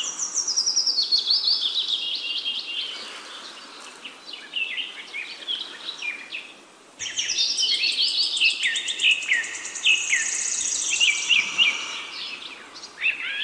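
Several songbirds chirping and singing, a dense run of quick falling whistles and trills. It fades, breaks off briefly and starts again louder about seven seconds in.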